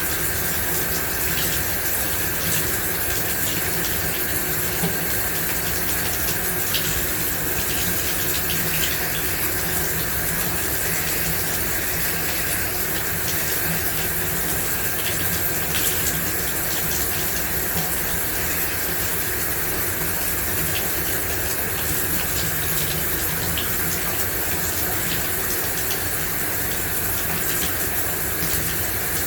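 Shower running steadily, water spraying and splashing in an even hiss, with faint scattered drip and splash ticks.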